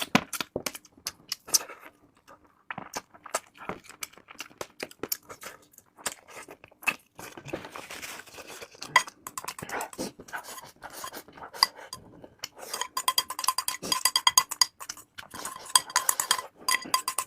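Close-miked eating sounds: crunching and clicking through the first part. From about two-thirds in, rapid clinking of utensils against a dish takes over, each clink ringing briefly.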